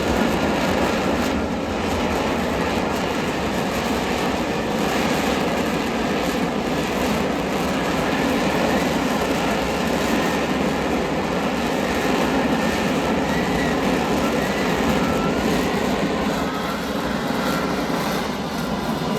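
Aircraft engine noise from a display aircraft in flight: a steady, continuous rushing noise with no clear rise or fall.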